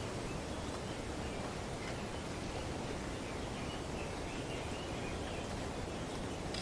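Steady wind rustling through tree foliage, with a few faint bird calls in the middle.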